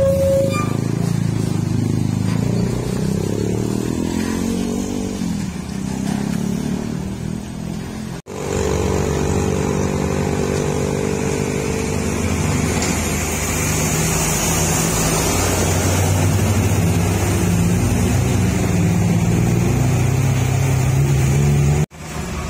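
Road vehicle engines running, their pitch rising and falling slowly, with two abrupt breaks about eight seconds in and near the end.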